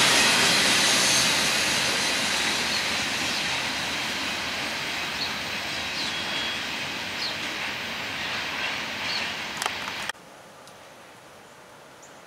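Freight train of covered hopper cars rolling away, its rumble fading steadily as the end of the train recedes. It cuts off suddenly about ten seconds in, leaving only a faint outdoor hiss.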